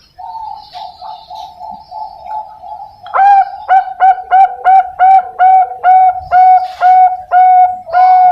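Young Bangkok-type zebra dove (perkutut) singing: a soft, rapid trill of cooing notes, then from about three seconds in a loud series of evenly repeated staccato coos, about two to three a second.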